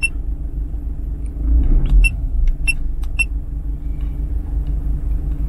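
Car engine idling at about 720 rpm, a steady low rumble inside the cabin that swells briefly about two seconds in. A handful of short high ticks sound over it as the buttons on the head-up display are pressed.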